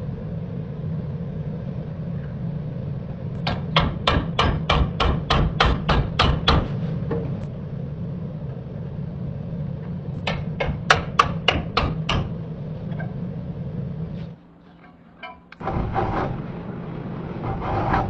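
A hammer tapping metal in two quick runs of sharp strikes, about four a second, over a steady low hum. Near the end, a rough scraping rub like filing.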